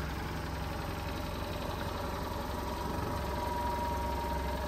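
Fiat 500L's engine running steadily at idle, a low even hum.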